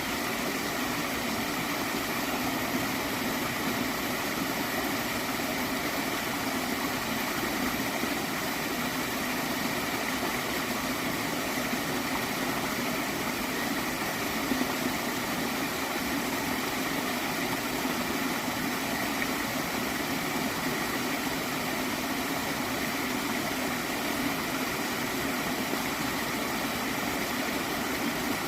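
Water of a small stream flowing and gurgling in a steady, even rush that does not change.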